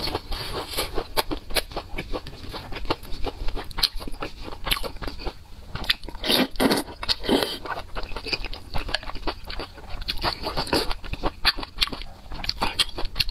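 Close-miked eating: chewing and biting of soft, saucy food, full of quick sticky mouth clicks and wet smacking, with a louder stretch of biting and sucking-in about six seconds in.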